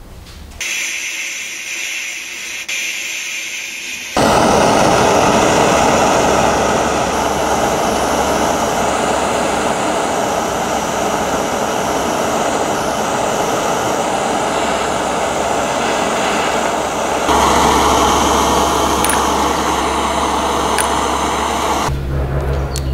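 Steady, loud whirring noise of a workshop power tool running, broken into several segments that change suddenly about 4, 17 and 22 seconds in.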